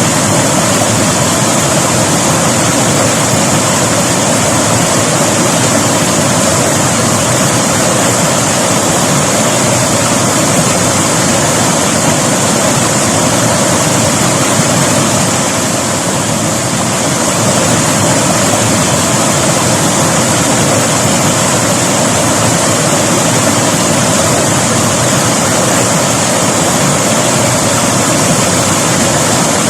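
River water rushing and splashing over rocks in a steady, loud roar of noise, with a slight lull about two-thirds of the way through.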